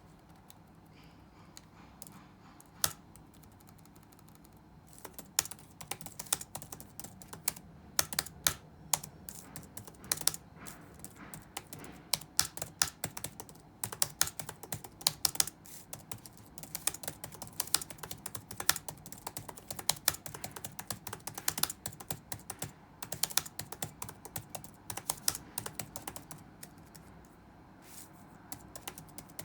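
Typing on a computer keyboard. A few scattered keystrokes come first, then fast, continuous typing from about five seconds in, which thins out near the end.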